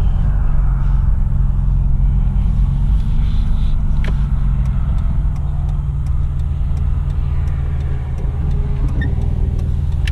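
Steady low road and engine rumble inside a moving 2004 Nissan Xterra's cabin. A sharp click about four seconds in is followed by faint, evenly spaced ticking.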